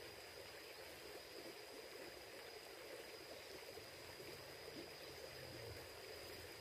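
Faint, steady rushing of a flowing river, with a thin steady high tone above it.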